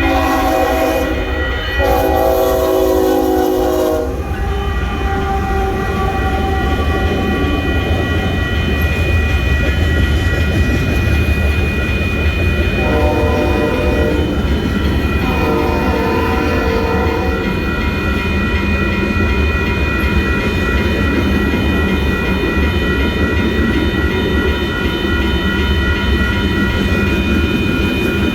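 A train passing close by with a steady low rumble. Its horn sounds twice at the start, then two shorter, fainter blasts about halfway through.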